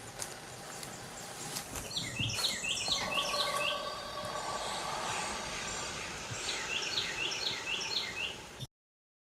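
Outdoor ambience with a bird chirping in two bouts of quick, repeated short chirps over a steady hiss. It cuts off suddenly near the end.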